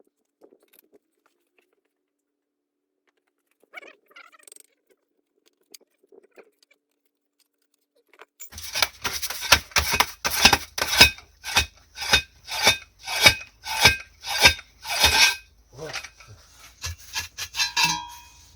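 Near silence for about the first eight seconds, then repeated rasping strokes, about two a second, over a low steady hum, growing weaker near the end.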